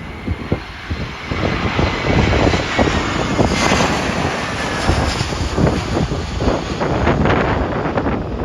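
Jet airliner on final approach passing low overhead, its engines' whine falling slightly in pitch as it goes by, loudest about three and a half seconds in. Strong gusty wind buffets the microphone throughout.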